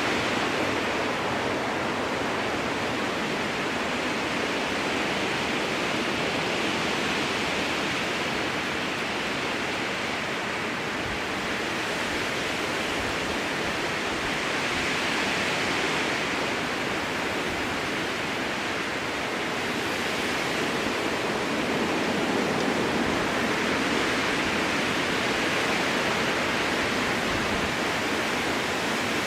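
Strong wind blowing through a spruce forest: a steady rushing hiss that swells and eases slowly every few seconds.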